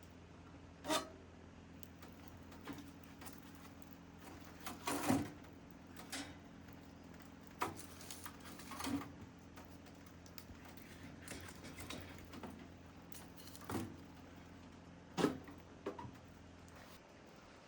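Scattered soft knocks and clicks over a low steady hum that stops near the end.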